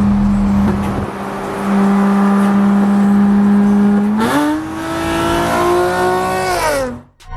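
Car engine held at steady high revs, then the pitch jumps up about four seconds in and climbs before falling away as the engine accelerates and lets off.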